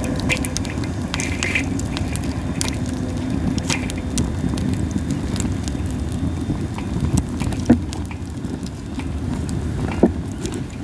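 Wood fire of masaki (Japanese spindle) branches burning with a steady low rumble and scattered sharp crackles and pops, two louder pops near the end.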